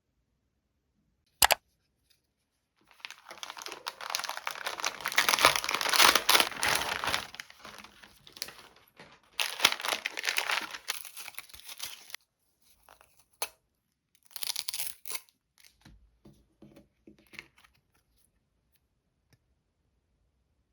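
Packaging being torn open and crinkled by hand: a sharp click, then two long spells of tearing and rustling and a few shorter crinkles that die away.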